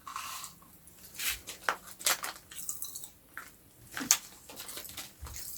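Cola-flavoured popping candy crackling in the mouth as it is eaten: scattered, irregular sharp pops and snaps.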